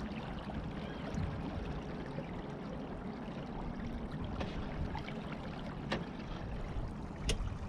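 Water rushing and trickling along the hull of a Beneteau First 20 sailboat, with scattered small clicks and one sharper tick near the end.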